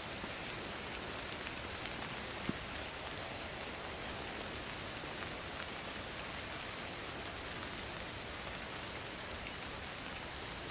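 Steady rain, an even hiss with scattered individual drops and one sharper drop tick about two and a half seconds in.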